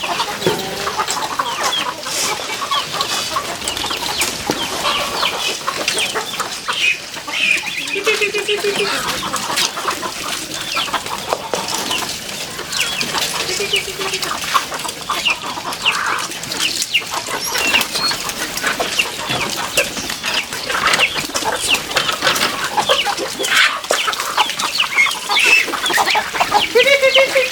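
Chickens clucking and calling, with many short clicks and rustles among the calls.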